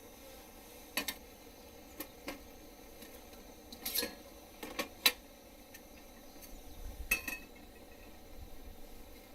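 Camp cookware and utensils being handled: scattered clinks and knocks, one every second or so, with a brief metallic ring about seven seconds in.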